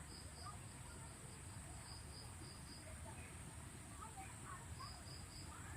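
Faint outdoor ambience of insects and birds: a steady high insect drone, several runs of rapid high pips, and scattered short bird chirps over a low rumble.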